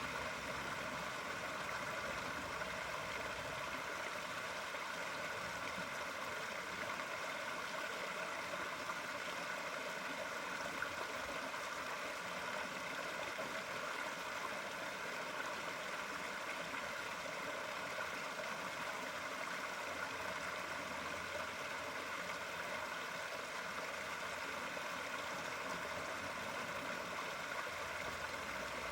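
Steady flowing water, an even unbroken splashing rush.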